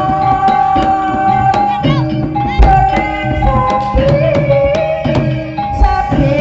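Live Javanese ebeg (jaran kepang) music: quick hand-drum strokes over a held melody line that bends in pitch now and then, with gamelan-style tones underneath.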